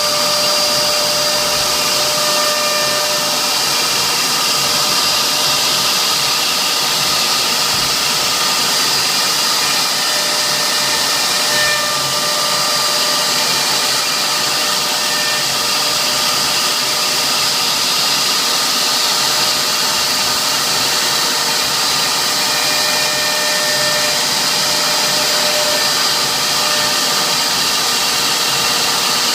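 CNC router spindle running steadily while engraving, a continuous high whine over a loud hiss.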